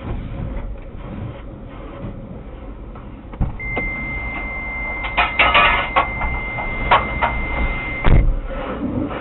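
Machinery rumbling with knocks and rattles. A steady, high electronic beep sounds for about four and a half seconds in the middle and then cuts off.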